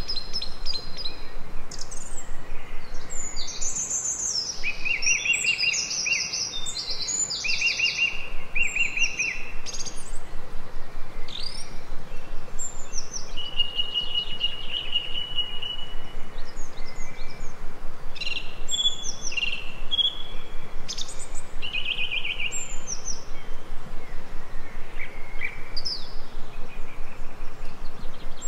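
Several songbirds chirping and trilling, with their calls overlapping over a steady background hiss. One longer, buzzy trill comes about halfway through.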